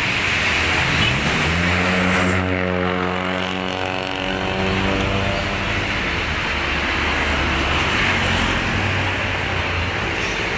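A motor running with a steady hum that rises in pitch about a second in and then holds, over constant mechanical noise.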